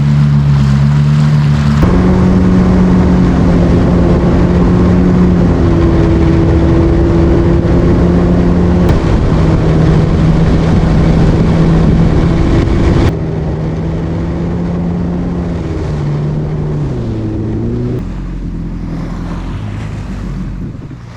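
Jet ski engine running at a steady cruising speed, with a rush of wind and water over it. About sixteen seconds in the engine note drops as the ski slows, and the sound is quieter near the end.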